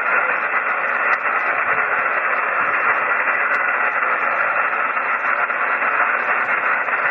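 Steady hiss and static from a shortwave receiver tuned to a single-sideband ham radio net, the audio cut off sharply above about 3 kHz as in an SSB voice channel.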